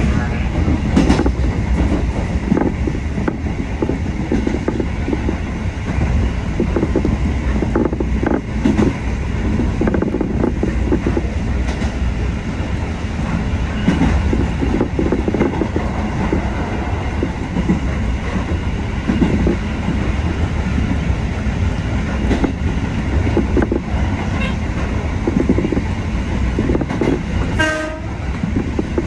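Kotoden electric train running along the track, heard from inside the front cab: a steady running rumble with the clickety-clack of the wheels over rail joints. A short pitched tone sounds near the end.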